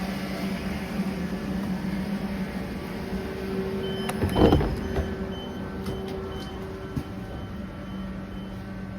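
Train at a station running with a steady electric hum. About four and a half seconds in there is a short, louder sound with a held tone over the hum.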